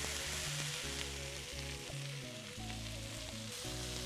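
Browned ground-turkey meatloaves sizzling in hot oil in a cast iron skillet, under background music.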